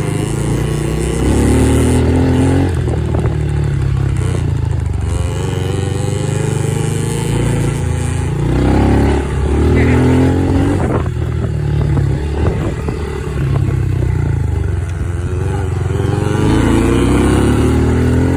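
Dirt bike engines running and revving, their pitch climbing three times as the bikes accelerate, over a heavy low rumble.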